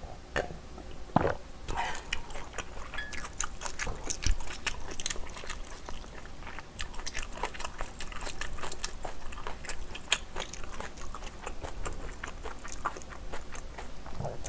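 Close-miked chewing, with a steady run of many small wet mouth clicks.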